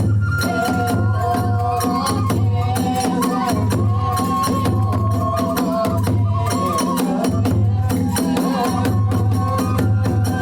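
Kagura hayashi music: a bamboo flute playing a wavering melody over steady drumming and rapid clashing of small hand cymbals.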